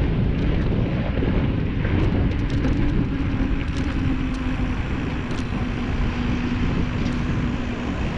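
Wind buffeting the microphone of a moving bicycle rider, with a steady low hum that drops slightly in pitch about halfway through and a few faint light ticks.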